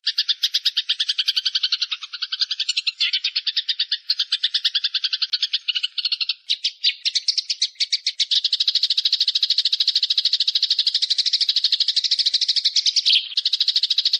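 Songbird masteran (training) recording: a rapid, unbroken chattering trill of fast repeated high notes. The pattern changes about six seconds in and grows louder about two seconds later.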